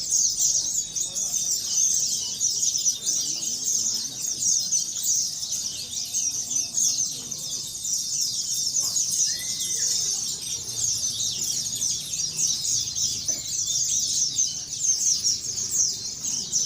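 Many pleci (white-eyes) singing at once in a contest, a dense unbroken chatter of rapid high twittering trills with no pauses.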